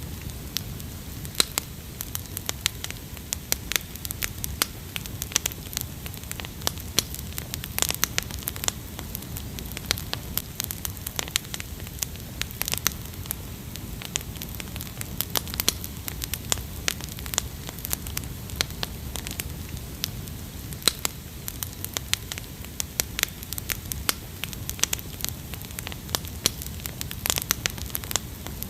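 Wood campfire crackling, with frequent sharp irregular pops and snaps over a steady low rumble of flame.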